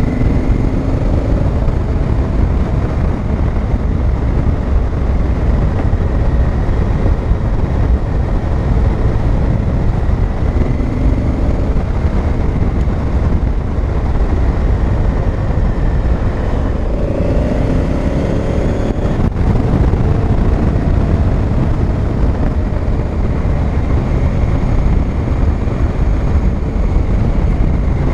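Honda Africa Twin CRF1000L's parallel-twin engine running as the motorcycle rides along, under a steady heavy rumble of wind and road noise; the engine note rises briefly a few times.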